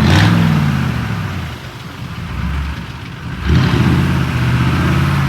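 Mud truck's big engine revving hard, the revs falling away and easing off about a second and a half in, then jumping back up to high revs past the halfway point and holding there.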